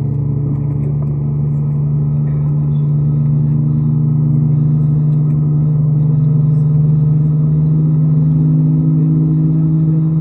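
Jet airliner engines heard from inside the cabin: a loud, steady drone with a few tones that slowly shift and edge higher in the second half.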